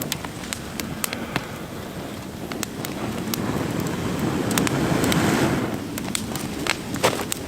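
Campfire crackling with sharp, irregular pops and ticks over a steady rush of wind, which swells for a moment about four to five seconds in.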